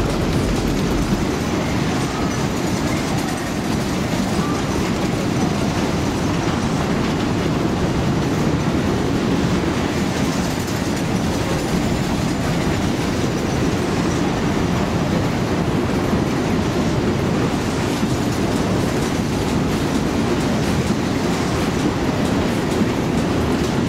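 A 1930s Skid fairground ride running: a steady rumble and clatter of its cars rolling round the track.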